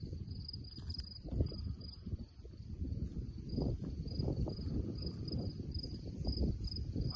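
Crickets chirping in short, high-pitched pulses, roughly two a second, over a louder low rumbling noise.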